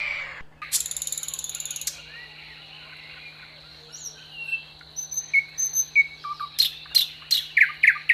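Eagle calling: scattered high chirps building to a quick run of short, falling piping notes near the end, with a brief high buzzing sound about a second in.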